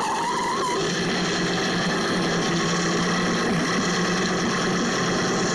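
Engine of a vintage open two-seater sports car running steadily as the car drives, its pitch shifting slightly partway through.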